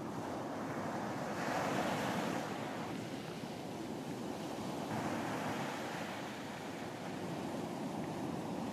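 Ocean waves breaking and washing up on a beach, the surf swelling twice, about a second and a half in and again about five seconds in.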